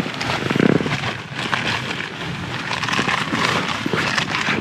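Rain pattering steadily on a tent's flysheet, a dense spatter of fine drops, heard from inside the tent.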